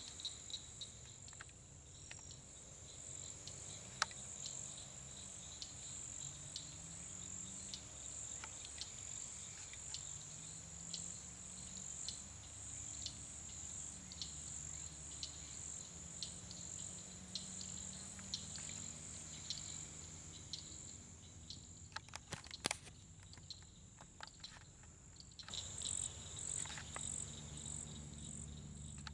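Insects chirping in a steady, high-pitched pulsing chorus, with a short cluster of clicks about three quarters of the way through.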